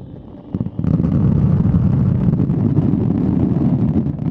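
Fireworks barrage: many shells bursting in quick succession that merge into a continuous rumble with crackling. It starts with a single bang, swells about a second in and falls away near the end.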